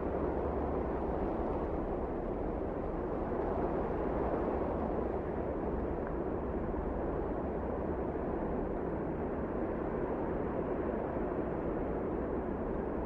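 Wind blowing steadily: an even, low rushing noise with only slight swells.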